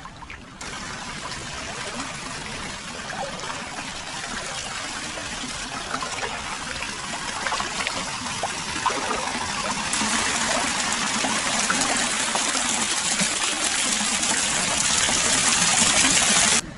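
Free-flowing hot-spring water pouring and splashing into a foot bath: a steady rushing of water with small splashes. It starts abruptly, grows louder about ten seconds in, and cuts off sharply near the end.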